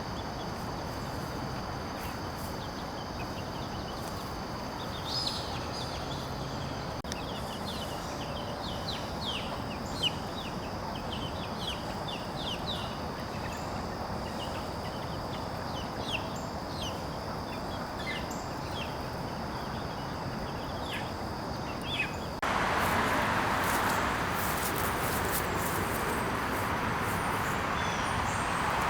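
Birds giving many short, high chirps in quick succession over a steady high hum. Near the end the chirps stop and a louder, even hiss takes over.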